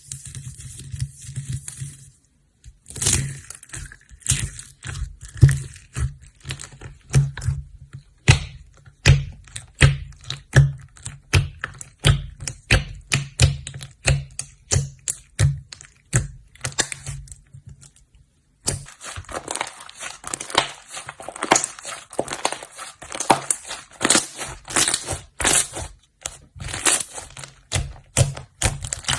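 Slime being pressed, poked and stretched by hand, giving rapid crackling pops and clicks, several a second, over soft low thuds. The sound stops briefly twice, about two seconds in and again near eighteen seconds.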